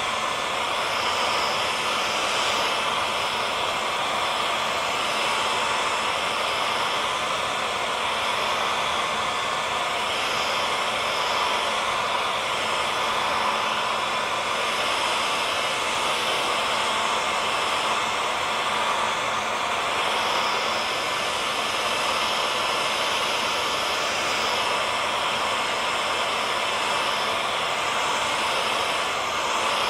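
Hair dryer running steadily: an even rush of blown air with a faint, constant motor whine inside it, unchanging in level.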